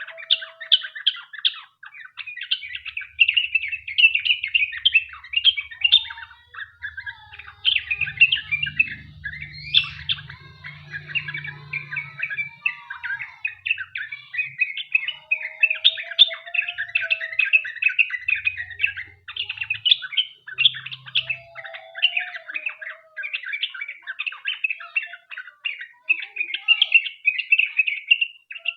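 Yellow-vented bulbul (trucukan) singing a long, almost unbroken run of rapid chirping notes, the 'ropel panjang' rapid-fire song used as a lure to set other bulbuls singing.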